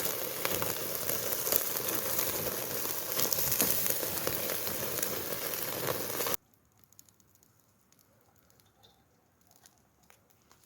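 Dense sizzling and crackling of food cooking over a campfire, full of sharp pops. It cuts off abruptly about six seconds in, leaving a near-quiet stretch with a few faint ticks.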